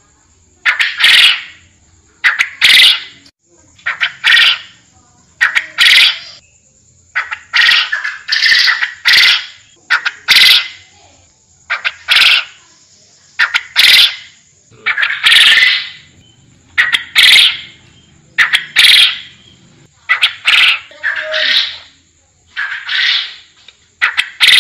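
Forest quail (puyuh hutan) calling over and over: a short, loud call about every one and a half to two seconds, some of them in quick pairs, around sixteen in a row.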